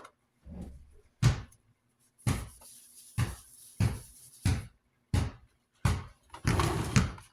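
Knocks and clunks from handling a metal desk fan as it is adjusted, about one a second, some with a short ring after them.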